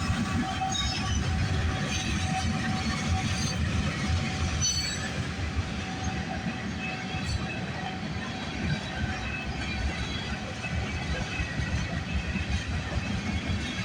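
Freight cars of a CPKC train rolling past, a steady low rumble of steel wheels on the rails with faint, thin wheel squeals now and then.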